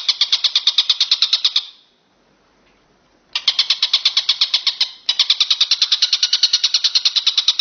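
Walang kecek bush cricket stridulating: a fast, high, buzzing chirr of about eleven pulses a second. It stops for about a second and a half, then starts again with a brief break a little later.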